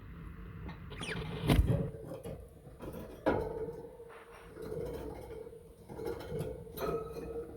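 Pet budgerigars moving about their cage: a short falling chirp about a second in, a loud thump soon after, a sharp knock a couple of seconds later, and small taps and scratches, over a steady low hum.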